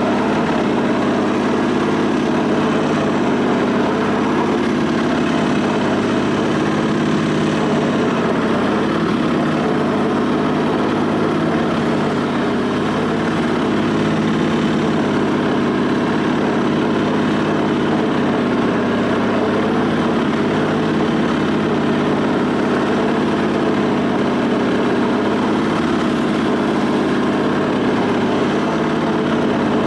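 1974 Sears SS/16 garden tractor's twin-cylinder engine running steadily at an even speed.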